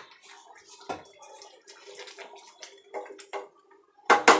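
Watery chicken gravy in a pan, stirred with a spoon: liquid sloshing and bubbling, small irregular clinks of the spoon on the pan, and one louder knock about a second in.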